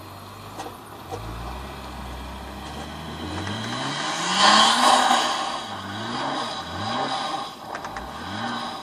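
Nissan GT-R's twin-turbo V6 revving as the car drives out through deep snow. One long rise comes to a loud peak about halfway through, then the engine is blipped up in several short revs as it pushes on.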